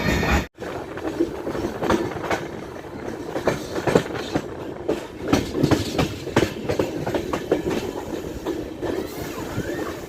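Passenger train running on the rails, its wheels and carriages clattering with many irregular clicks and knocks. The sound cuts out briefly about half a second in.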